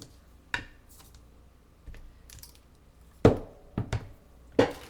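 A handful of sharp knocks and taps from an acrylic stamp block and stamping supplies handled on a tabletop, the loudest about three seconds in.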